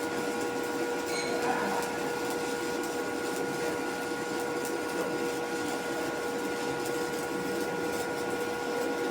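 A machine running steadily: an even mechanical hum with several constant whining tones over a hiss, unchanging throughout.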